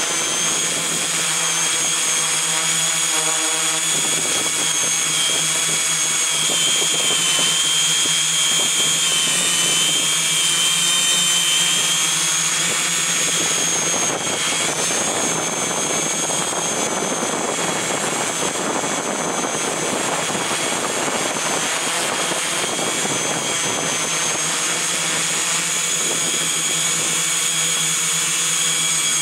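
Multirotor's electric motors and propellers whining steadily in flight, the high pitch wavering slightly, over a noisy rush of air.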